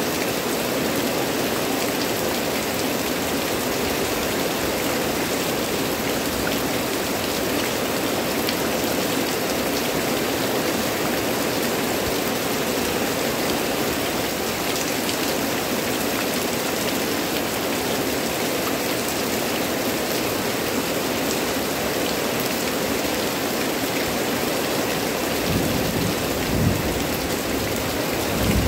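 Heavy tropical rain pouring steadily onto dense leafy vegetation, a constant even hiss, with a brief low rumble near the end.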